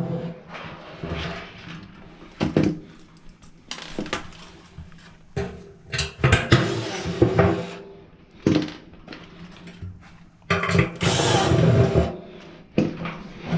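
Irregular clanks, knocks and rattles of metal parts being handled while a clothes dryer is taken apart, with a louder, longer stretch of noise about eleven seconds in.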